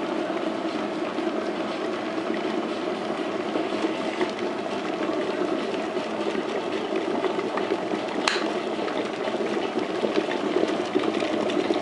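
Kettle of water heating at or near the boil, a steady noisy bubbling rush, with a single sharp click about eight seconds in.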